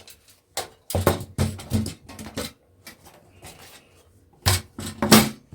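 Irregular metal clicks and knocks as a hard drive is unscrewed and worked loose from its steel case, with the loudest knocks about four and a half to five seconds in.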